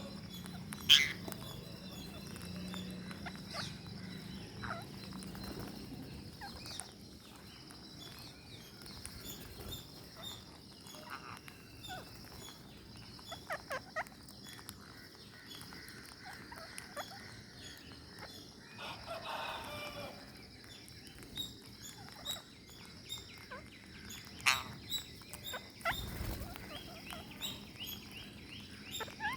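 Birds calling in short chirps and squawks, with scattered sharp clicks and taps.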